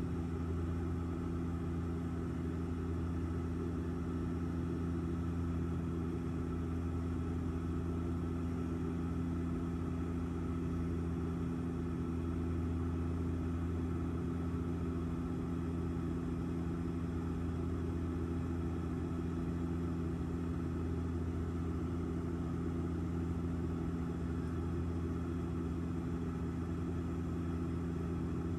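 Steady drone of an airliner's engines and rushing air heard inside the passenger cabin in flight: a constant low hum with a few steady tones, unchanging throughout.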